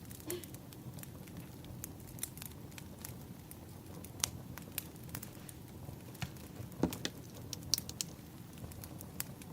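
Firewood burning: irregular crackles and sharp pops, a few of them louder, over a steady low rumble of the fire.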